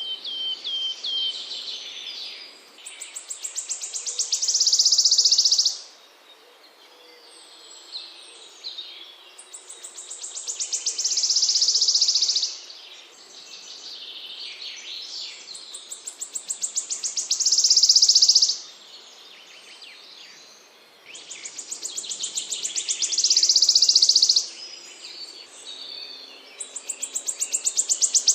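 A small songbird repeating one song phrase about every six seconds: a string of high notes that speeds up and grows louder into a dense buzzing trill, then stops suddenly. Softer chirps fill the gaps, and a run of short, evenly spaced high notes opens the stretch.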